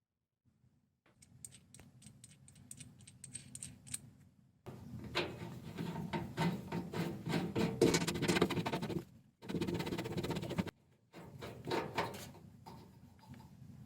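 A run of irregular knocks and clatters from something being handled: light clicks at first, then louder, denser knocking in the middle, broken twice by short cuts.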